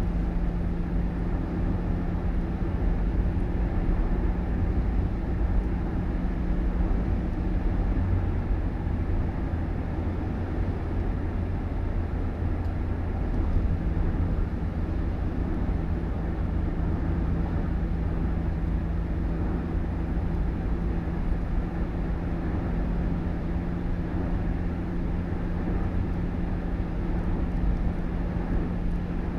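Steady low rumble of a moving vehicle, with a steady hum that fades about eight seconds in and comes back a few seconds later.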